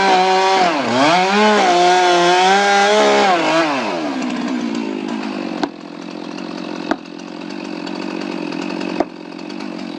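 Chainsaw engine running at high revs, its pitch dipping sharply just under a second in as it bogs in the cut and recovering, then falling away about three and a half seconds in. A lower steady buzz follows, broken by three sharp clicks.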